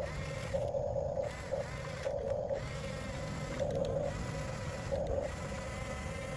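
Electric drive motors and gearboxes of a 1/14 scale RC bulldozer running, with a steady whine and a louder surge about every second and a half.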